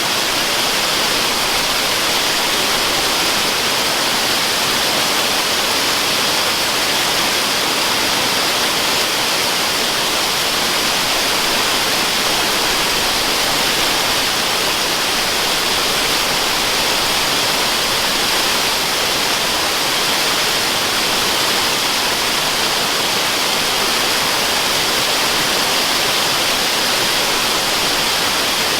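Waterfall: a steady, even rushing of falling water, bright and hissy, with little low rumble.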